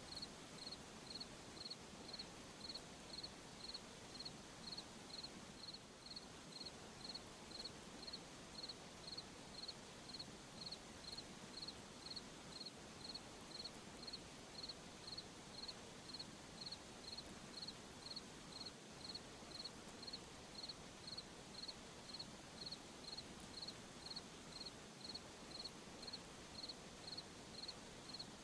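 Cricket chirping at an even pace, about one and a half chirps a second, over a soft steady night hiss.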